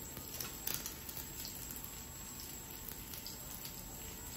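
Dosa frying on a hot tawa: a steady, soft sizzle with scattered small crackles, a few sharper ones within the first second.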